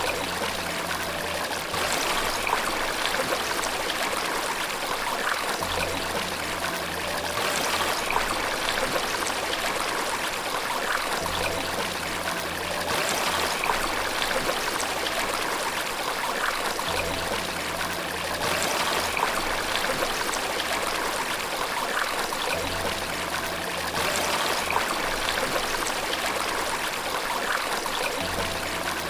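Steady running water, splashing and trickling as from a stream or small waterfall. Faint low sustained notes of soft background music return about every five to six seconds.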